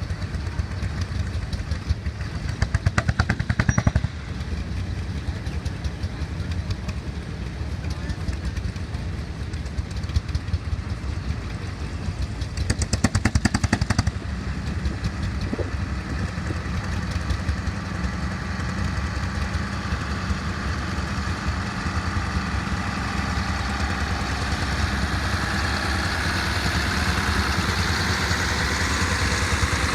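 Tractor engine running steadily at a tractor pull, with two bursts of rapid, even clatter about ten seconds apart, each lasting a second or two. Over the last few seconds the engine gets louder and higher.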